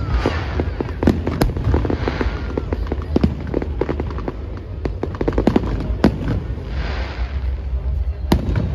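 Aerial fireworks going off in quick, irregular succession: sharp bangs and cracks over a constant low rumble, with swells of crackling hiss about two seconds in and again near the end.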